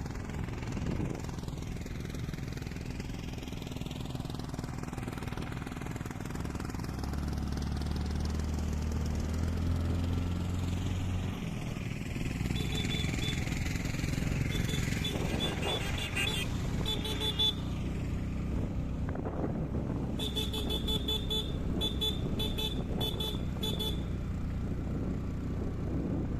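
A motor vehicle engine running steadily on the road, with bursts of short, repeated horn beeps through the second half.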